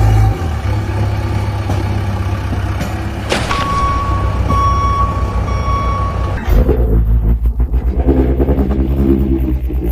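Truck engine sound running steadily, with three evenly spaced reversing beeps from a backup alarm about halfway through, after which the engine turns to a rhythmic chugging.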